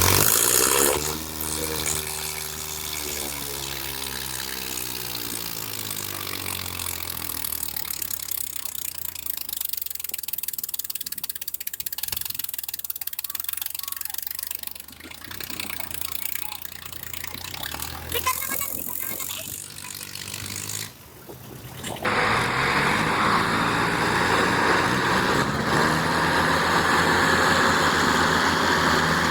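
Tractor engine running, its pitch falling over the first two seconds. About 22 s in, the sound cuts abruptly to a louder engine running steadily.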